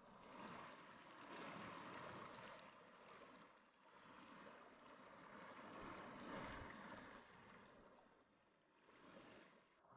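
Faint rushing of a mountain stream, swelling and fading.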